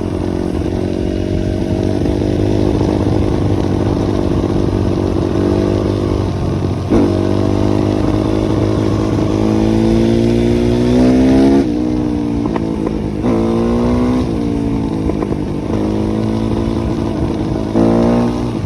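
Small dirt-bike engine running steadily, then accelerating: its pitch climbs and drops sharply about a second before the middle, then climbs and drops several more times toward the end as it shifts up through the gears.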